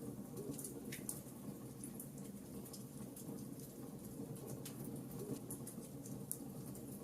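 Wood fire crackling in a fireplace: irregular sharp pops and snaps over a steady low rumble of the burning logs, with a few louder pops about a second in and again near the end.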